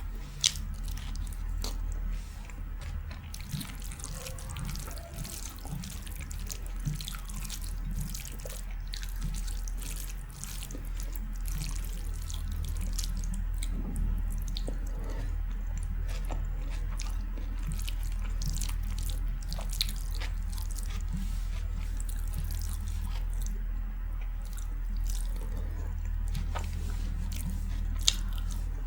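Close-miked eating of soft, wet Indian food such as rice and daal: wet chewing and mouth clicks, with a steady low hum underneath.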